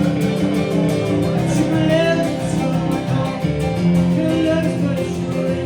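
Band playing a rock-and-roll song, led by guitar over a steady beat.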